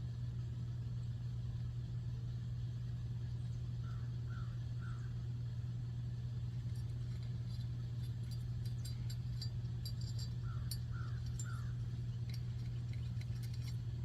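A steady low hum with faint, light clicks of small parts being handled through the second half. Two short runs of three quick chirps come, one about four seconds in and one near eleven seconds.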